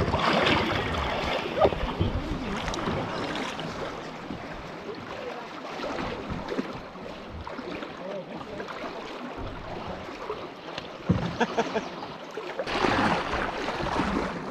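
Wind buffeting the microphone over water noise around a canoe setting off, with a sharp knock about a second and a half in and a few more knocks around eleven seconds.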